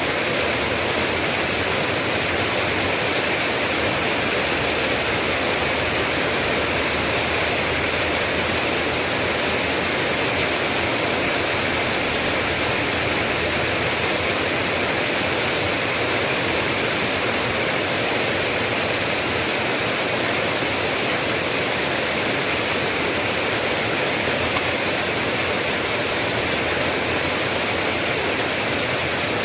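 Steady, heavy rain: a dense, even hiss of falling water with no individual drops or thunder standing out.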